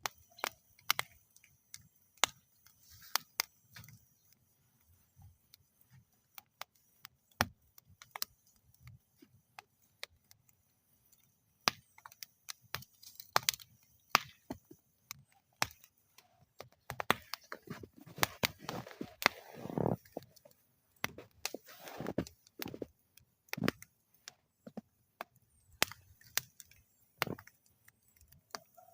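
Wood fire burning in a metal fire bowl, crackling and popping irregularly, with a busier flurry of crackles for a few seconds past the middle.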